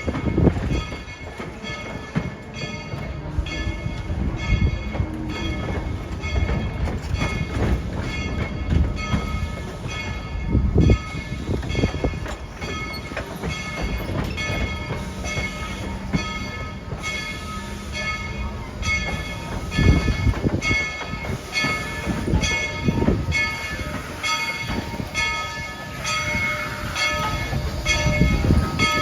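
Tweetsie Railroad's narrow-gauge steam locomotive #190 and its train running, with a steady beat of about one and a half a second over a low rumble.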